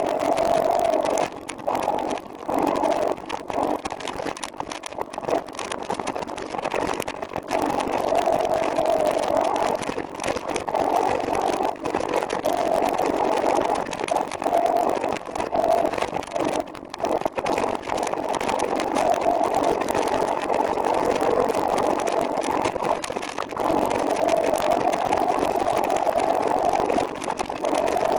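Steady rushing wind and road noise from a moving trike ride, dipping in level briefly again and again.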